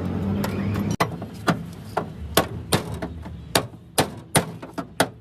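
Repeated hammer blows, sharp and separate, about two to three a second at uneven spacing. They follow a steady low rumble that cuts off suddenly about a second in.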